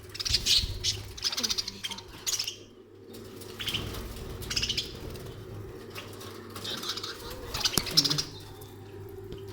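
Pet budgerigars chirping and chattering in several short bursts.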